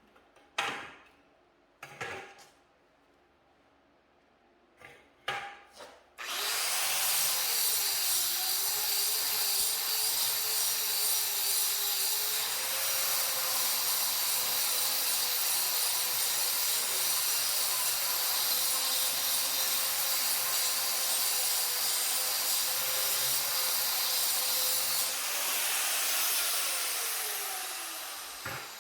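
A few knocks, then a power cutting tool starts about six seconds in. It runs steadily under load for about twenty seconds, its pitch sagging briefly at first, then is switched off and winds down with a falling whine near the end.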